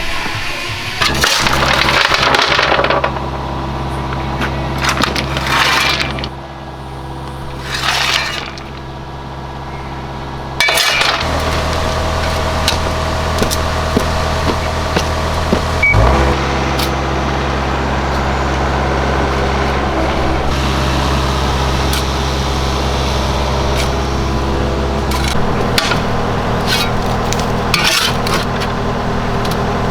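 A steady mechanical hum from a running machine, with irregular sharp clinks and knocks on top of it.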